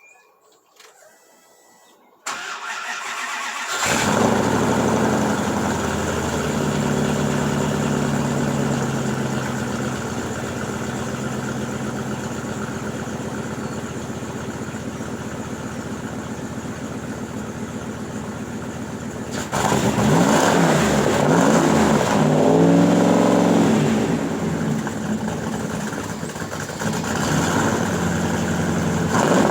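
A 1996 Dodge Ram 1500's V8 cold-started through a cat-back dual exhaust with a Flowmaster Flow FX muffler. The starter cranks briefly about two seconds in and the engine catches. It runs at a fast cold idle that slowly settles, then is revved up and down a few times from about twenty seconds in.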